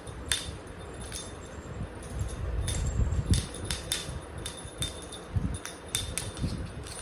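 About a dozen light clicks and tinkles at irregular intervals, over low bumping and rustling.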